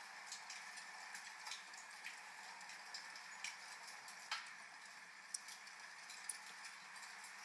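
Wood fire crackling with irregular sharp pops, the loudest a little past the middle, over a steady hiss of rain.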